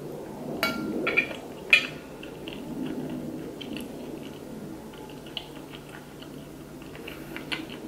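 Close-up chewing of a mouthful of waffle with strawberries and whipped cream. A few sharp mouth clicks come in the first two seconds, then softer, irregular chewing follows.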